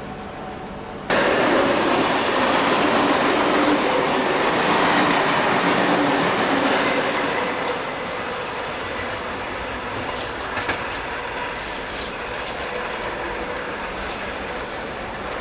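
Train running on the rails, starting suddenly about a second in, loud until about seven seconds and then quieter and steady, with a few sharp clicks of wheels over rail joints.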